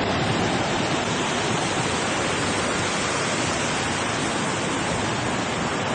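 Steady rushing of fast-flowing water in a mountain beck.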